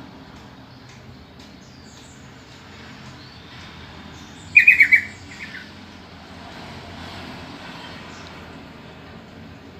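Sooty-headed bulbul calling: a loud run of four quick notes about halfway through, then two fainter notes, over steady low background noise and faint chirps.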